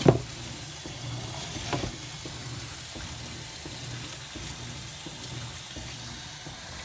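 Top-load impeller washing machine running, with water rushing and a steady low electric hum. A sharp knock right at the start, the loudest moment, and a softer one a little under two seconds in.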